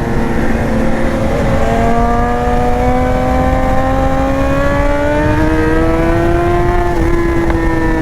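BMW S1000R inline-four motorcycle engine under steady throttle, its note rising slowly for about seven seconds, then dropping slightly and easing lower as the throttle comes off. Wind rush runs underneath the engine.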